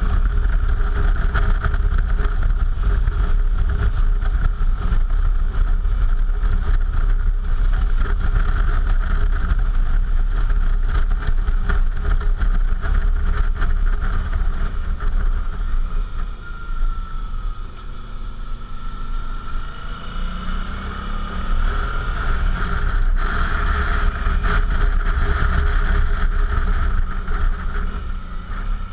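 Suzuki V-Strom's V-twin engine running under way at a steady pace; about sixteen seconds in it eases off and goes quieter, then the pitch rises a few seconds later as it pulls away again and holds steady.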